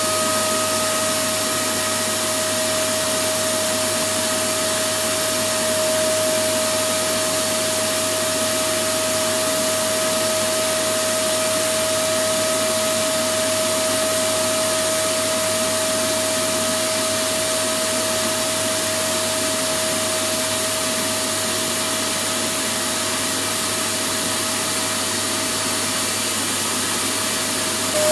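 Vacuum cleaner running steadily: an even rush of air with a constant whine from the motor, unchanging in pitch and level.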